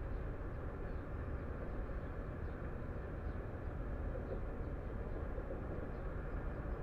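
Steady low rumble of outdoor background noise with no clear single source.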